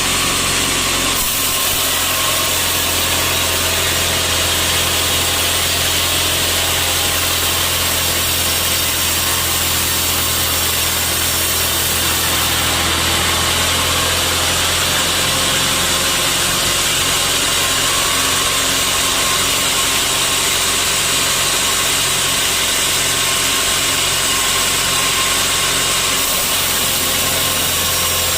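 Sawmill saw and its motor running steadily, a loud continuous machine noise over a steady low hum. The sound shifts slightly about a second in and again near the end.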